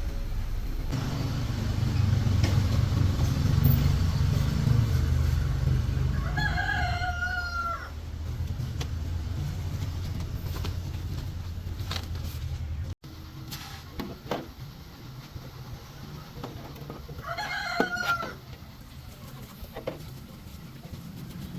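A rooster crows twice, about ten seconds apart. Under it runs a low steady rumble that falls away about halfway through, and there are a few scattered knocks.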